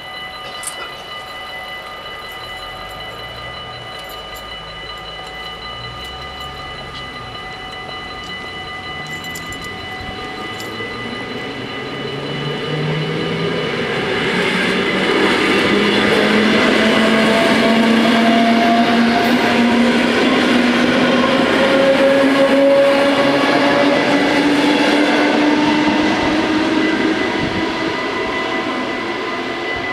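Level-crossing bells ring steadily as an NS Mat '64 electric train passes. The train builds up from about twelve seconds in and is loudest from about fifteen to twenty-six seconds in, with a motor whine rising slowly in pitch, then fades near the end while the bells keep ringing.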